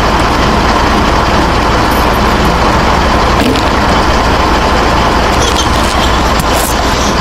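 A small electric motor running steadily under a dense, loud hiss, with an even, fast low pulsing and no change in speed.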